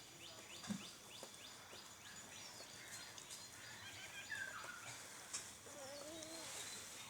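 A kitten mewing once, a short call that rises and falls near the end. Faint high chirps from birds repeat quickly in the background during the first couple of seconds.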